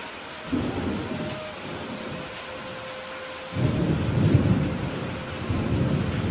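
Steady rain with two rolls of thunder: a short rumble about half a second in, then a longer, louder one starting a little past the middle.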